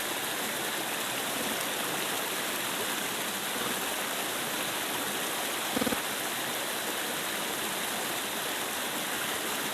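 River water flowing steadily, an even hiss of current, with one brief low thump about six seconds in.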